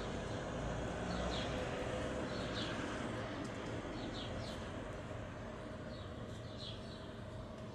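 A small bird chirping in short, quick notes, often two at a time, about once a second, over a steady background rumble and hiss that slowly grows quieter.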